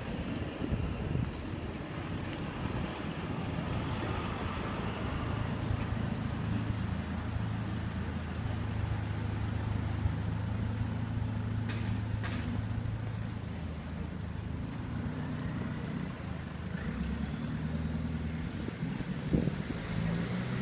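A motor vehicle engine running slowly with a steady low hum over street noise, fading in the middle and coming back near the end. A sharp knock sounds near the end.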